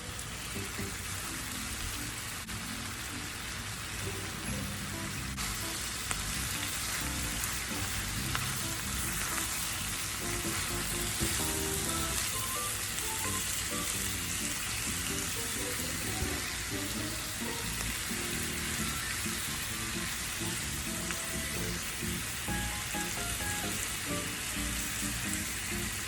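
Food frying in a hot skillet, a steady sizzle, with background music underneath.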